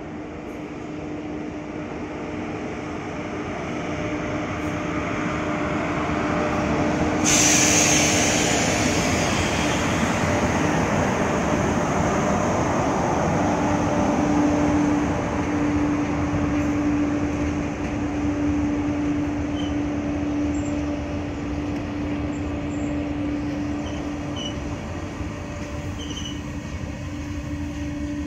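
Twin WAG-5 electric locomotives hauling a freight train past, growing louder as they approach, with a steady hum running throughout. About seven seconds in a sudden loud hiss comes in as the locomotives pass close, followed by the steady noise of loaded freight wagons rolling by.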